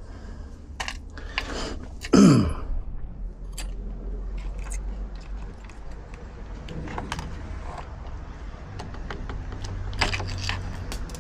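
Scattered small metallic clicks and rattles of door lock hardware and tools being handled, with a short, loud falling squeak about two seconds in.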